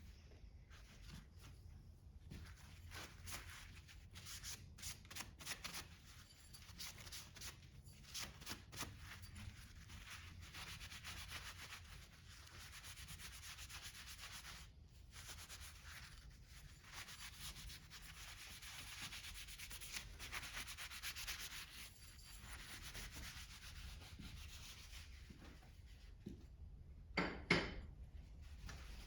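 Faint scraping and rubbing on the metal parts of a Kohler small engine being dismantled: a run of short strokes, then a steadier rasp, and a single sharp clank near the end.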